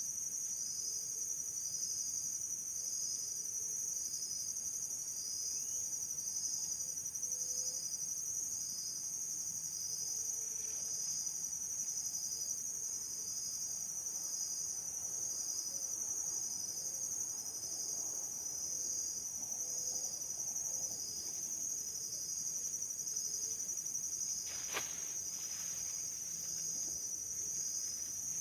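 Steady insect chorus: a high-pitched ringing with an evenly pulsing trill a little faster than once a second. There is a single sharp click near the end.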